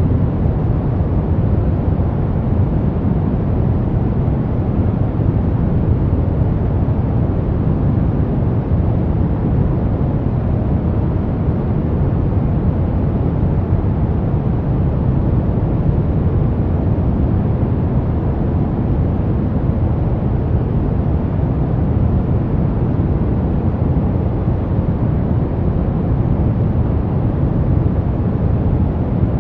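Steady brown noise: an even, deep rushing hiss, strongest in the low end, with no changes or events.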